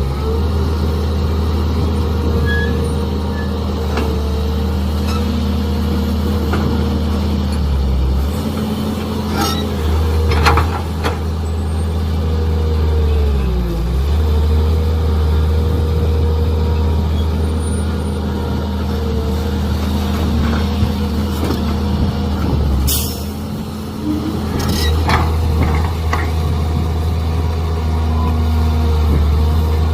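Mini excavator's diesel engine running steadily, its pitch dipping briefly three times as it bogs under hydraulic load while digging. Sharp clanks and knocks of the bucket and steel arm are scattered through, the loudest about ten seconds in and near twenty-three seconds.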